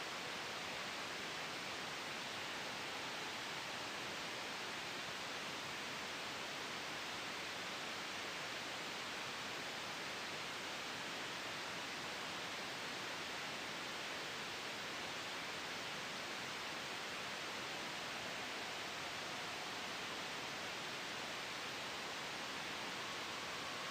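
Steady white noise: an even hiss with no change in level.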